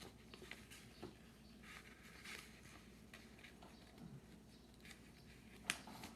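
Faint rustling and creasing of a sheet of paper being folded by hand, with one sharp tap about three-quarters of the way through.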